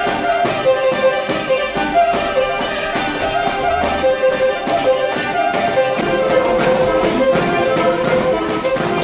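Traditional Black Sea horon dance music, with a bowed fiddle playing a fast, repeating melody over a quick, steady beat.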